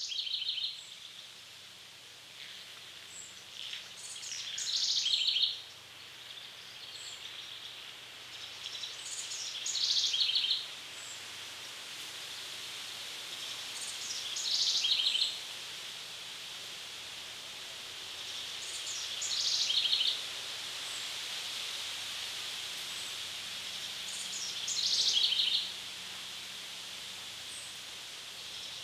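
A songbird repeats the same short, high song phrase about every five seconds, each ending in a quick run of notes, over a steady high hiss of woodland background.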